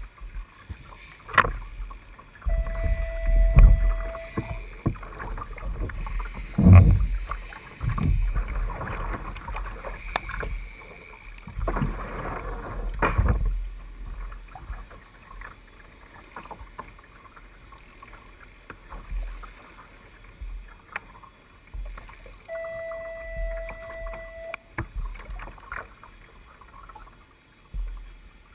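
Water splashing and sloshing around a fishing kayak on open water, with low wind rumble on the microphone. A steady beep-like tone lasts about two seconds and sounds twice, once early and once near the end.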